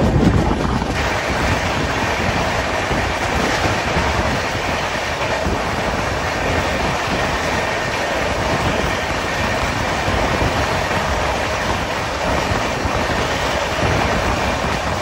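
Passenger train running at speed, heard from its open doorway: a steady noise of the wheels on the rails.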